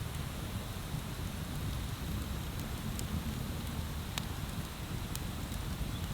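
Wood bonfire burning, with a steady low rushing hiss and a few sharp crackling pops from the burning wood, the loudest about two-thirds of the way through.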